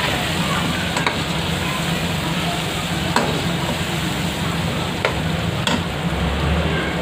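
Chicken, tomatoes and green chilli paste sizzling in hot oil in a black wok while a perforated metal skimmer stirs them, with a few sharp clicks of the spoon against the pan. A steady low hum runs underneath.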